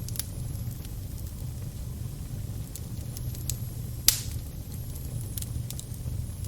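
Crackling fire: a steady low rumble of flames with scattered sharp crackles, and one louder pop about four seconds in.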